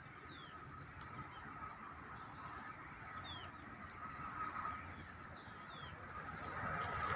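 Birds calling in short, scattered, falling chirps over a steady background hum and a faint held tone.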